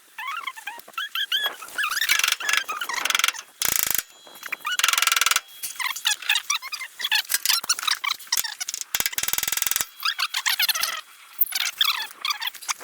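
A socket ratchet clicking in three short runs, at about four seconds, five seconds and nine seconds in, while birds chirp throughout.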